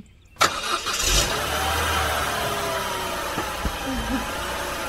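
Radio-play sound effect of a car engine: it starts suddenly about half a second in and then runs steadily with a low rumble.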